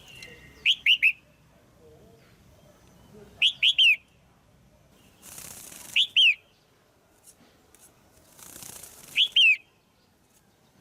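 Female red-whiskered bulbul calling: four short bursts of two or three quick notes, spaced about three seconds apart. Before the last two bursts there is a second-long rustling noise.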